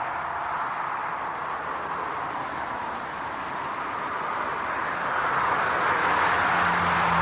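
Jet airliner engines heard as a steady rushing noise that swells toward the end, when a low engine hum comes in.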